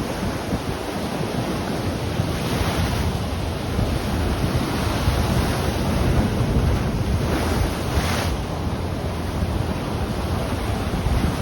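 Ocean surf washing on the shore, with two louder surges of wave noise, one a couple of seconds in and one about eight seconds in. Wind buffets the microphone, adding a low rumble throughout.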